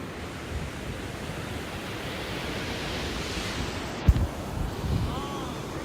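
Ocean surf washing ashore, one wave swelling and breaking around the middle, with wind buffeting the microphone. A sharp thump about four seconds in.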